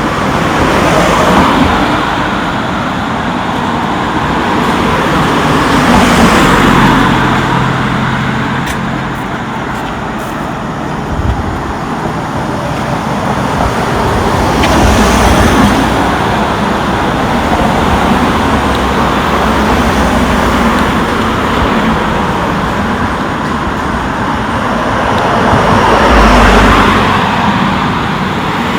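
Road traffic: vehicles passing one after another, each swelling up and fading away, with the loudest passes about six seconds in and near the end.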